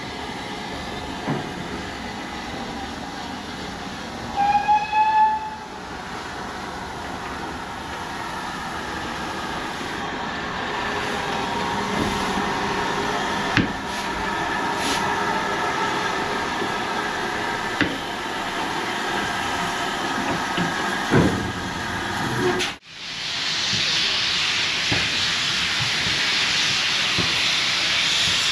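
Steam locomotive at a station platform: a short whistle blast, rising slightly in pitch, about four seconds in, then steady running noise with a few clanks. After a sudden break, a loud steady hiss of escaping steam takes over near the end.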